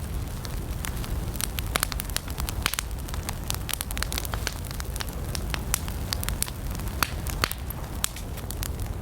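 Wood campfire burning with a steady low rumble of flame and frequent sharp, irregular crackles and pops from the burning logs.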